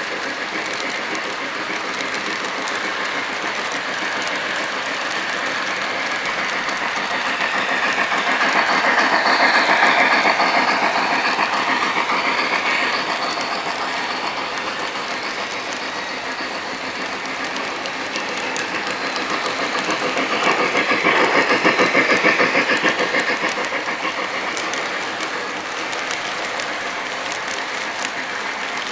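O-gauge model train running on the layout track, its wheels clicking and rattling steadily over the rails. It grows louder twice as the train comes past close by, about a third of the way in and again about three quarters of the way in.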